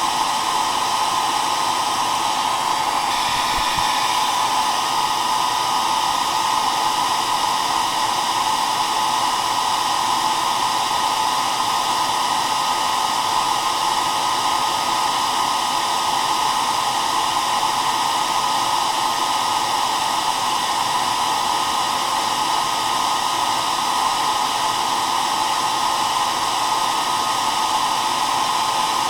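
Hair dryer running continuously at a steady speed: an even blowing hiss with a steady motor hum.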